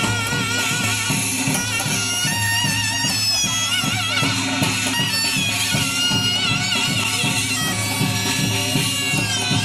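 Korean shamanic ritual music: a double-reed wind instrument plays a wavering, ornamented melody over a steady drum beat of about three strokes a second.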